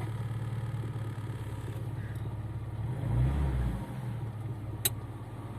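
ZAZ Slavuta car engine idling steadily, with a brief rise in revs about three seconds in and a sharp click near the end.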